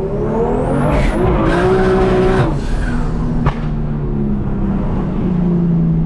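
Single-turbo BMW M2 Competition's straight-piped inline-six pulling hard, heard from inside the car. The engine note and a high whistle rise together in the first second or so. The engine drops off about two and a half seconds in, a sharp snap follows about a second later, then a lower engine note sinks slowly.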